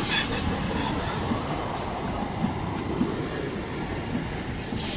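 MEMU electric multiple-unit train pulling into a station platform: a steady rumble and rattle of wheels on the rails, with a few sharp clanks near the start.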